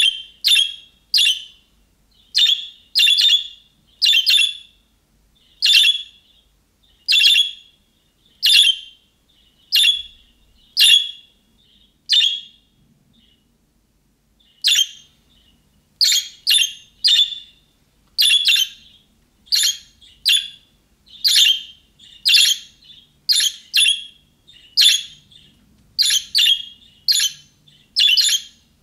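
Budgerigar giving a long series of short, sharp contact calls, mostly one or two a second and sometimes in quick pairs, with a pause of about two seconds near the middle.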